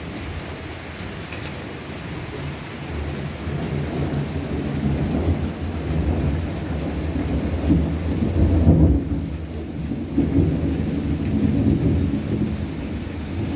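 Rolling thunder rumbling through steady rain, building over several seconds to its loudest a little past the middle, then easing off.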